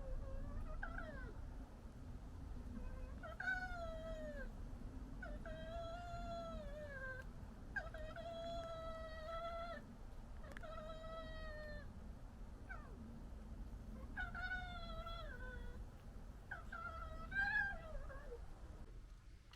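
Red fox giving a series of about seven drawn-out, high-pitched cries, each about a second long with a wavering pitch that bends up and down.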